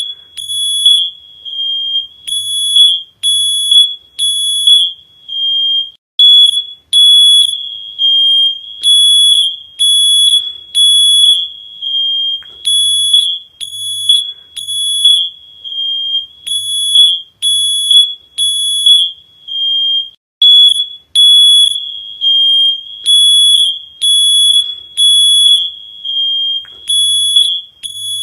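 Smoke alarm sounding: loud, shrill, high-pitched beeps repeating in groups of about three, the alarm pattern that signals smoke or fire.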